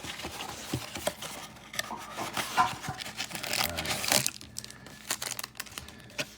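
Trading-card packaging being handled, torn and crinkled by hand: irregular rustling and tearing of wrapper, busiest in the first couple of seconds and again about three and a half seconds in.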